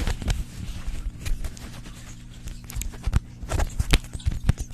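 Irregular taps and clicks of objects handled close to the microphone, over a steady low hum.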